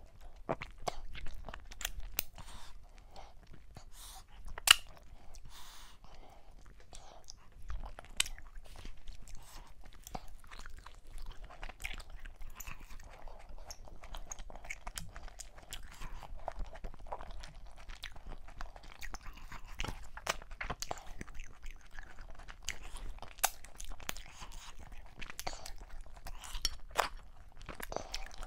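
A person eating fufu with okra soup and meat by hand: wet chewing, lip smacks and many sharp mouth clicks, with one louder smack about five seconds in.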